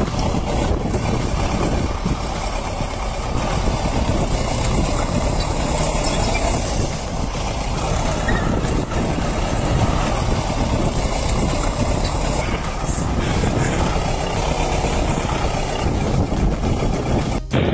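Bulldozer's diesel engine running with a steady low rumble while the machine works through deep mud.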